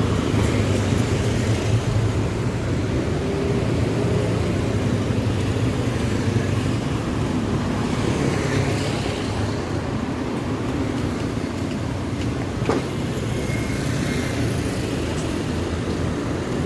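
Street traffic: vehicle engines running close by in a steady hum, with one sharp knock about three-quarters of the way through.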